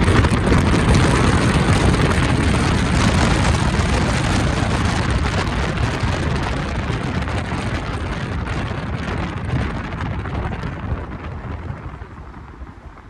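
Loud, steady road and wind roar of a moving car passing through a road tunnel, fading away over the last few seconds.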